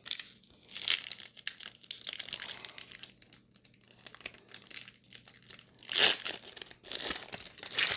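Foil wrapper of a trading-card pack crinkling and tearing as it is handled and opened, in irregular rustles that are loudest about a second in and again around six seconds in.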